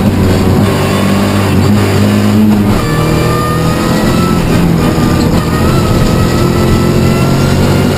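Peugeot 207 R3T rally car's turbocharged four-cylinder engine, heard from inside the cabin, running hard under load. There is a change in the engine note a little under three seconds in, then the revs climb slowly.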